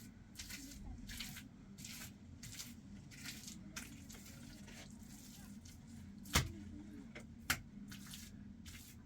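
Wet mortar being worked with a trowel: short scraping, squishing strokes about twice a second, with two sharp knocks of the tool near the middle.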